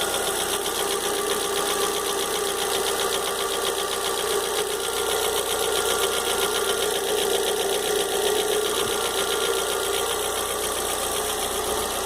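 Volkswagen Fox engine running steadily with a rapid, even ticking: the noise in the engine whose cause the owner is asking about.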